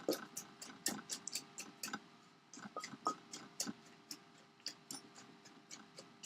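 Pestle pounding in a mortar, crushing peanuts into the papaya salad: a quick, uneven run of light knocks, about three or four a second, with a short pause around two seconds in.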